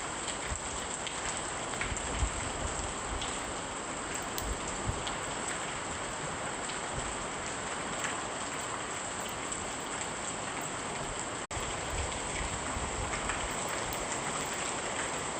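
Steady heavy rain falling on a surface, an even hiss with scattered sharp droplet ticks. It cuts out for an instant about eleven seconds in.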